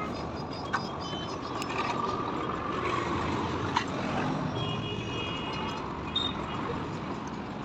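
Steady wind and road noise of a motorcycle riding along a highway among traffic. A brief high tone sounds for about a second and a half a little past the middle.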